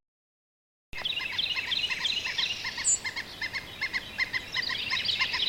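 Field recording of a downy woodpecker making everyday calls as it forages: a long run of short, evenly repeated notes, several a second. Another bird calls in the background with higher chirps. The recording starts about a second in, after a moment of silence.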